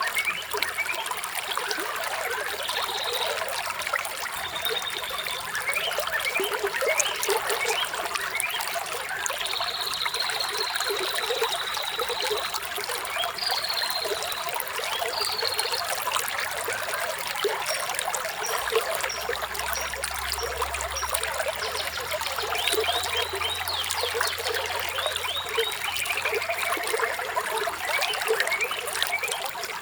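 Flowing water trickling steadily, with birds chirping now and then over it. About ten seconds in there is a held note lasting a couple of seconds, and past the twenty-second mark a quick run of short calls.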